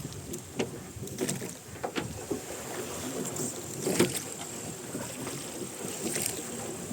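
Rowing boat under oars: oars dipping and splashing with the oarlocks creaking and knocking at irregular moments, the loudest knock about four seconds in.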